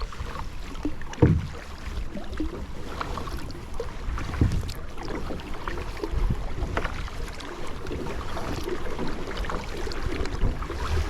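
Water splashing and lapping around a kayak as it is paddled, with irregular paddle splashes; the loudest come about a second in and about four and a half seconds in.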